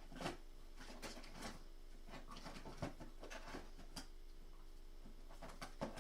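Irregular light clicks, knocks and rattles of small plastic makeup items being rummaged through in a container while searching for a brow pencil, over a low steady hum.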